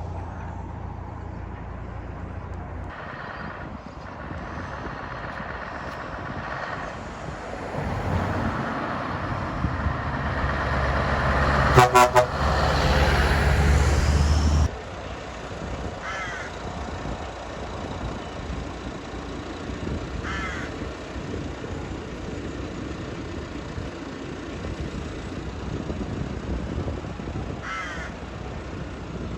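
Vintage tractor engines running and growing louder as they pass, with a short horn toot about twelve seconds in; the sound then cuts off suddenly to a quieter engine rumble, over which crows caw three times.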